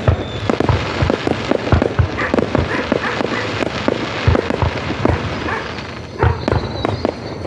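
Aerial fireworks bursting in an irregular rapid string of bangs, several a second, over a steady haze of crackle and rumble.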